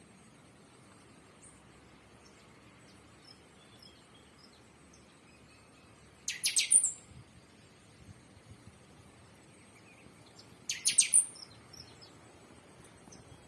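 Two short bursts of rapid, very high-pitched bird chirps, about four seconds apart, over a quiet background with a few faint scattered chirps.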